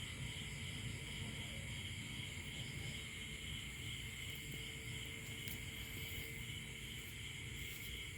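Steady high-pitched chorus of insects that does not let up, over a low rumble.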